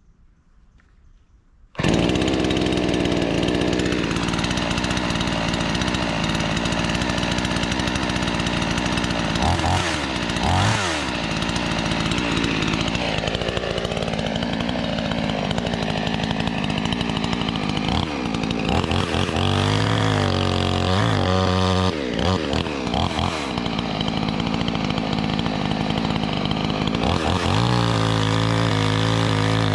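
Two-stroke petrol chainsaw that comes in abruptly about two seconds in and then runs loud and steady. Its engine speed falls and rises several times, and it settles to a lower, slower running speed near the end.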